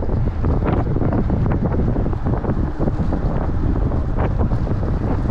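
Loud, steady wind buffeting the microphone while riding, with scattered knocks and rattles from a bicycle running over a concrete road.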